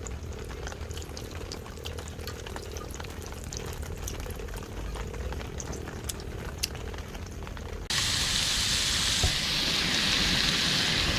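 Food sizzling in a hot pan with scattered small crackling pops over a low rumble. About eight seconds in, the sound cuts abruptly to a louder, steady hiss.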